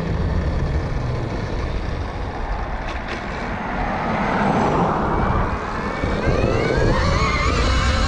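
2021 KTM Freeride E-XC electric dirt bike on the move over a woods trail: a steady low riding noise, with the electric motor's whine rising in pitch over the last couple of seconds as the bike accelerates.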